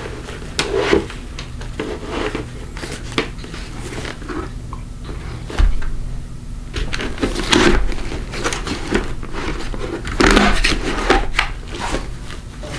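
Handling noises from a Schuberth C3 Lite modular motorcycle helmet: scattered clicks, knocks and rustles as its parts and buttons are worked, over a faint steady low hum.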